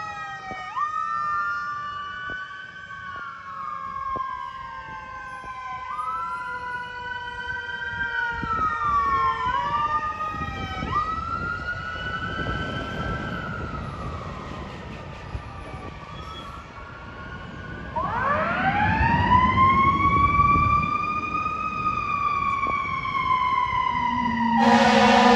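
Fire apparatus sirens wailing, two overlapping, each rising and falling every few seconds. About 18 s in, a louder siren winds up slowly and then falls away. Near the end, a loud steady horn blast from the fire truck starts.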